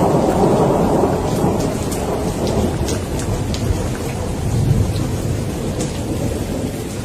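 Steady rain with rolling thunder: a rumble already under way fades over the first couple of seconds, and a lower rumble swells again about four to five seconds in. Single drops land close by as sharp ticks over the rain's hiss.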